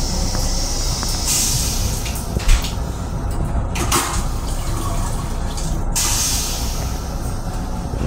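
Steady low rumble of an M7 railcar heard inside its restroom. A hiss swells twice over it, and there is one sharp click about two and a half seconds in.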